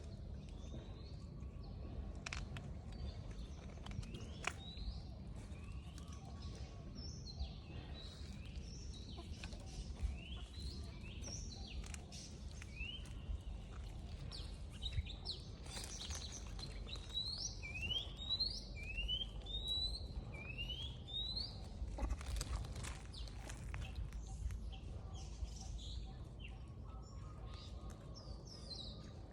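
Birds chirping: a series of short rising whistled calls, coming thick and fast about two-thirds of the way through, over a steady low rumble.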